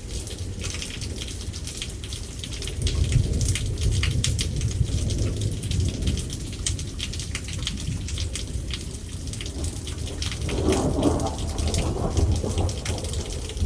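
Thunderstorm: steady rain falling with low rolling thunder that swells about three seconds in and grows again near the end.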